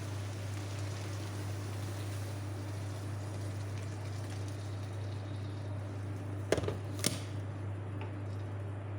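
Pot of rice, broad beans and hot water heating on the stove: a steady low hum with an even hiss of water, and two sharp knocks about six and a half and seven seconds in.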